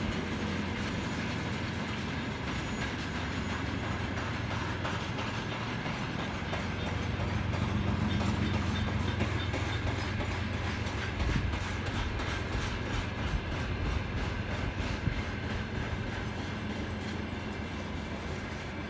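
Freight train rolling past with a steady low rumble, its wagon wheels clicking over the rail joints in a quick, even rhythm that becomes clearer in the second half.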